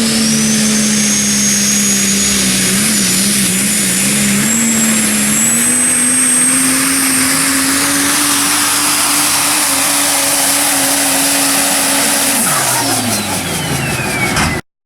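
Super Stock diesel 4x4 pull truck running flat out under load on a pull, its engine holding a steady high note that climbs slowly, with a high turbocharger whistle over it. About twelve seconds in the engine drops off and the whistle winds down as the run ends.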